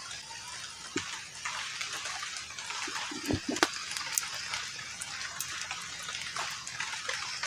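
Steady rain falling, with scattered drips and a few light knocks.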